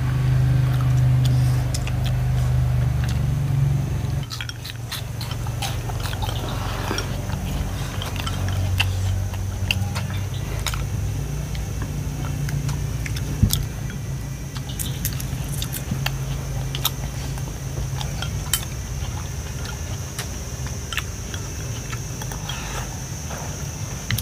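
People eating a meal: chewing and biting, with scattered light clicks of chopsticks and bowls over a steady low hum.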